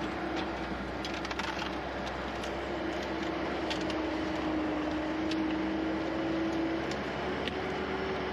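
Skid steer engine running steadily with a hum that eases off near the end, while brush crackles and snaps in the grapple in scattered sharp cracks.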